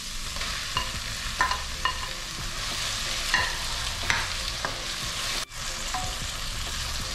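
Onion, garlic and ginger frying in a pan with a steady sizzle, with the scrapes and clinks of a utensil stirring them every second or so. The sound drops out for an instant about five and a half seconds in.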